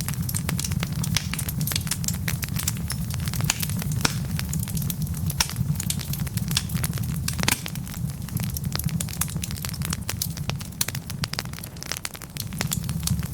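Wood logs burning in a fireplace, crackling with many irregular sharp pops over a steady low rumble of the flames.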